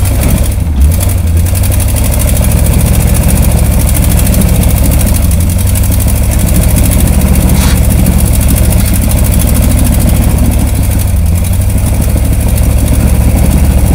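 Mud truck's engine running loud and steady, working hard under load as the truck climbs over rocks.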